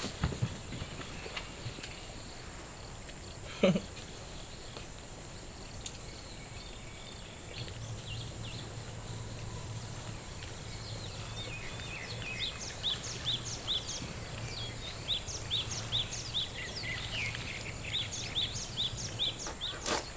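Outdoor nature ambience with a steady high, thin insect-like drone. A brief sharp sound comes early, then a low hum sets in, and past the middle a run of short chirps repeats two or three times a second.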